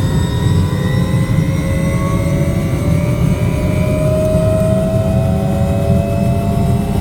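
Helicopter running: a loud, steady low rotor throb under a turbine whine whose tones slowly rise in pitch.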